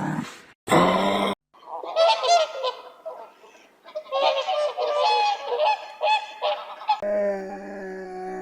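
Animal calls: a harsh growl that stops about a second in, then a dense run of short honking calls, many overlapping, then one steady held call near the end.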